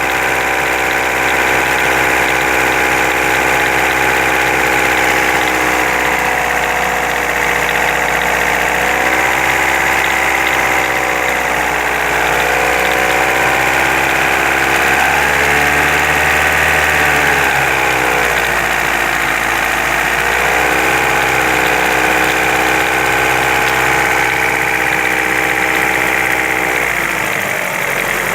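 Vehicle engine idling, its speed wavering down and back up a few times; the owner is trying to find what is knocking in it.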